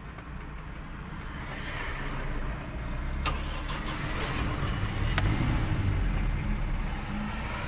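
Car engine started with the ignition key and then running at idle, growing louder over the first few seconds. Two sharp clicks sound about three and five seconds in.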